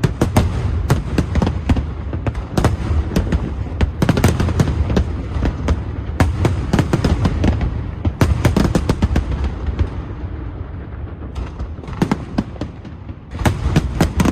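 Aerial fireworks display: rapid, overlapping shell bursts, several bangs a second over a constant low rumble. The bangs thin out for a few seconds, then a fresh barrage comes near the end.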